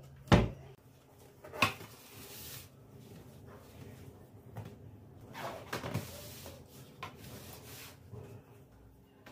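Kitchen cupboard and household items being handled: a sharp knock like a cabinet door shutting, a second knock about a second later, then softer clatter and rustling.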